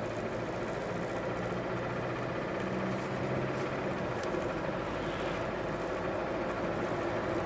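Inside the cabin, a 2016 Hyundai Sonata's four-cylinder engine runs steadily as the car speeds up, sounding really bad. The engine has a spun connecting-rod bearing that the mechanic believes is seizing.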